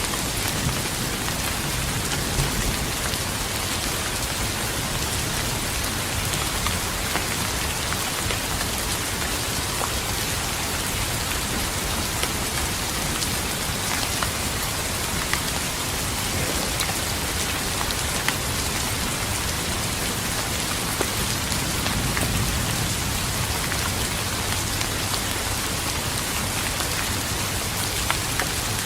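Steady rain falling, with scattered sharp drop ticks over an even hiss, and a soft low rumble of thunder swelling briefly about three-quarters of the way through.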